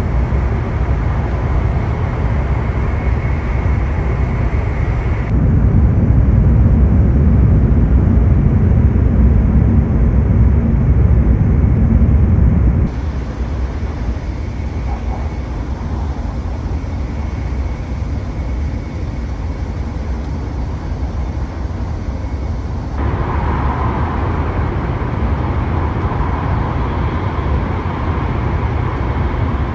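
Steady rumble and rush of a Hokuriku Shinkansen train running, heard inside the passenger cabin. The noise jumps abruptly in level and tone three times, loudest and deepest between about five and thirteen seconds in.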